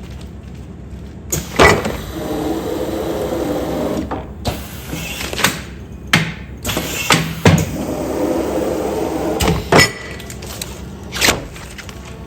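Commercial food-container sealing machine working continuously: sharp mechanical clunks every second or two, with a steady motor hum between them.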